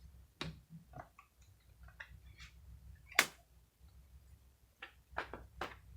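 Tarot cards being handled on a table: a scatter of light clicks and taps, with one sharper snap about three seconds in.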